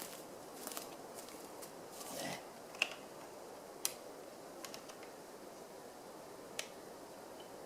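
Faint, scattered sharp snaps of dry branches being chopped and broken up for a campfire, a few isolated cracks spread over several seconds against a quiet outdoor background.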